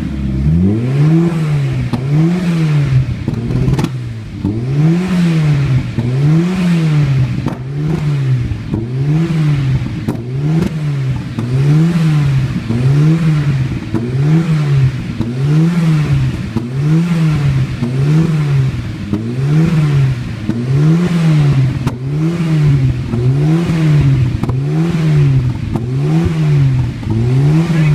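Engine revved repeatedly, its pitch rising and falling about once a second, to clear coolant out of the exhaust.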